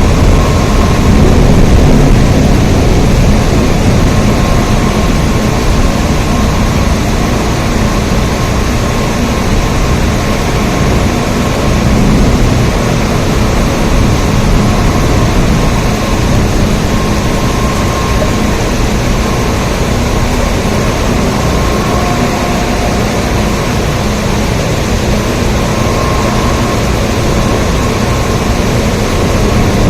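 Steady heavy rain: a continuous, even hiss with a deep low rumble under it.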